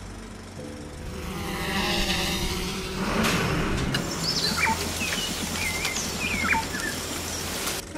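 A rising, sweeping swell over a low steady drone, then outdoor hiss with birds chirping in short, quick whistles. It all cuts off suddenly near the end.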